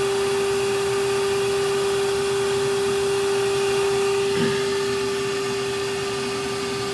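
Shop vac running steadily with a constant hum, vacuum-bleeding a brake caliper: it draws brake fluid and the last of the air bubbles out through the bleeder.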